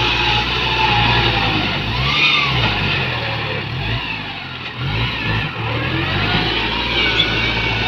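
ZT 155 tractor's engine running under load, its speed rising and falling a few times in the middle.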